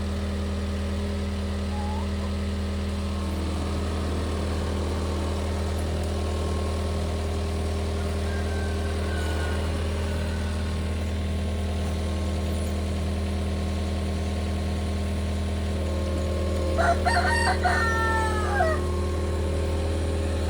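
John Deere 325G compact track loader's diesel engine running steadily, a constant low drone. About three-quarters of the way through, a rooster crows once, a call of about two seconds that drops in pitch at the end.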